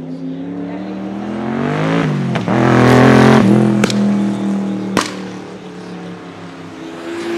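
Noble M600 Speedster's Yamaha-derived 4.4-litre twin-turbo V8 accelerating hard, the engine note rising in pitch, then cracking out several sharp exhaust bangs between about two and five seconds in before running on more steadily as it pulls away. The uploader believes the pops and bangs come from an anti-lag system fitted to the car.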